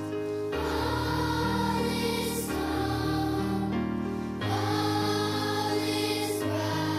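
A choir sings a Christmas song with instrumental accompaniment, holding sustained chords over a bass line, with the harmony moving every second or two.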